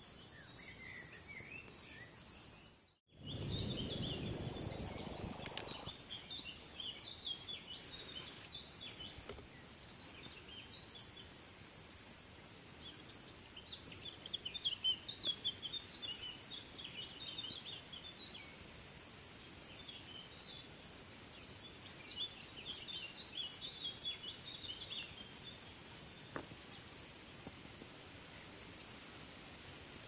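Small songbirds chirping in quick runs of high notes. About three seconds in, the sound cuts out for a moment, then a few seconds of loud low rumbling noise follow.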